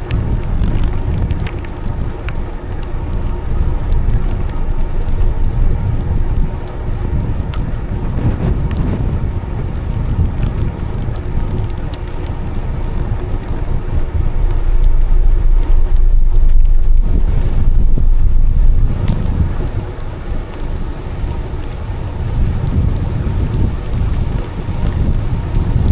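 Wind buffeting the microphone over the rumble of a bicycle being ridden along a cycle path, swelling louder for a few seconds past the middle.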